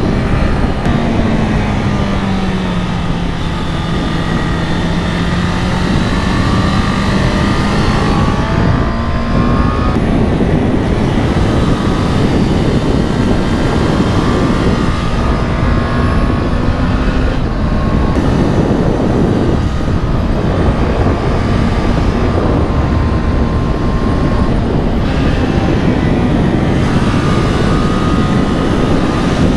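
Honda CB650R's inline-four engine, restricted to 35 kW, running under way as the motorcycle is ridden, its pitch rising and falling with the throttle. Heavy wind rush on the helmet-mounted microphone runs under it.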